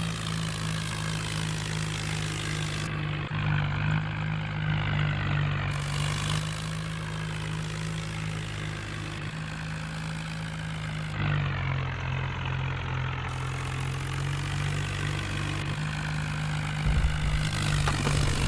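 Tractor engine running steadily, its pitch stepping slightly up or down a few times.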